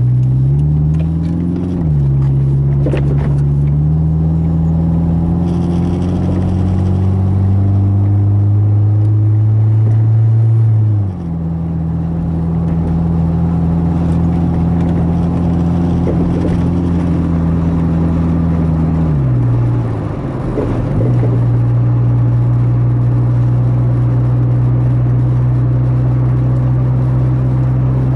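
Toyota MR2 (SW21) engine pulling hard up through the gears, its pitch climbing and then dropping at three gear changes, before settling to a steady highway cruise. No knock or clunk stands out over the engine.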